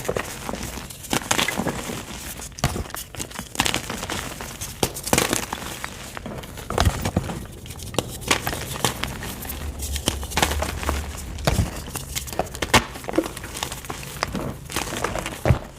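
White gym chalk being crushed, with soft, irregular crumbling and crackling throughout.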